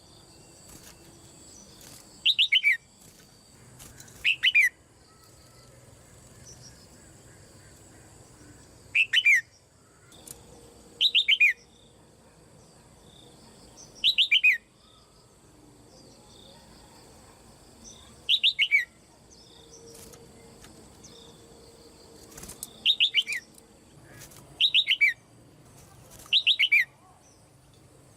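Female red-whiskered bulbul calling: nine short calls of a few quick notes falling in pitch, two to four seconds apart.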